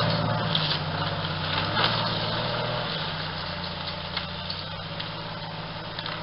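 Jeep Wrangler engine running steadily as it drives away, its hum fading with distance. A few faint clicks sound over it.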